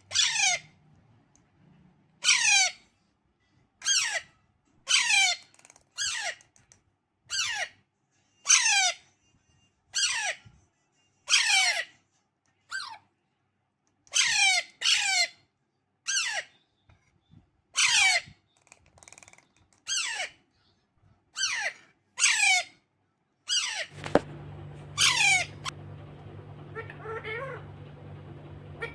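Alexandrine (Pahadi) parakeet chick giving loud, shrill squawks over and over, each one falling sharply in pitch, about one every second or so. Near the end a steady low hum comes in behind the calls.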